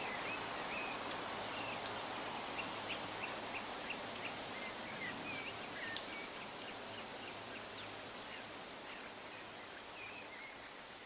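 Faint outdoor ambience with small birds chirping in short, quick calls, fading out slowly.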